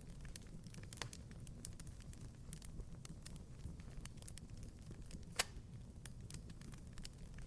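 Wood fire crackling in a fireplace: irregular small snaps over a low steady rumble, with a louder pop about a second in and the sharpest pop about five and a half seconds in.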